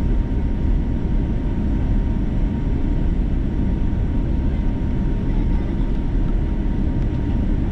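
Steady cabin roar inside an Airbus A330-300 airliner, a low even rush of engine and airflow noise, with a faint steady tone running through it.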